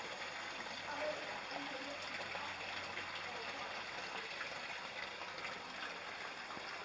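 Running water, a steady trickle without a break.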